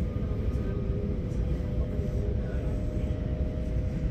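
Running noise heard inside a moving passenger train: a steady low rumble of the wheels on the track, with a faint steady tone above it.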